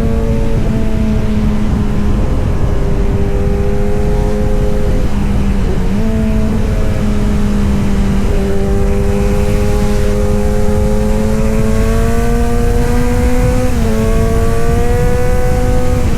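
Kawasaki Z900 inline-four engine and exhaust running at a fairly steady speed, its pitch drifting slightly and rising gradually in the second half, with a brief jump and dip near the end, over a low rumbling noise.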